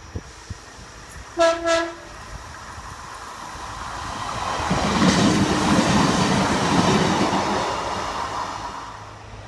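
Diesel multiple unit train sounding two short horn blasts about one and a half seconds in, then passing the crossing: its noise swells to a peak midway and fades away toward the end.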